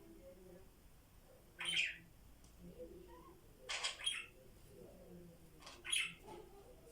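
Pet parrots squawking: three short, harsh calls a couple of seconds apart, the middle one a quick double.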